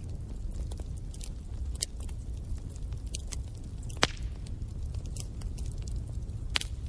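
Wood fire burning in a fireplace: a steady low rumble of the flames with scattered crackles and pops, the sharpest pop about four seconds in and another near the end.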